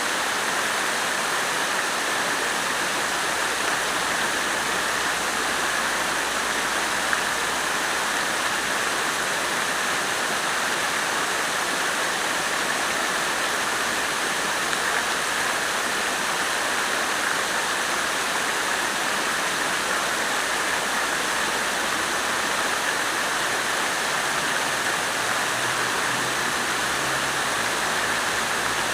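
Water fountain splashing steadily, a constant even rush of falling water.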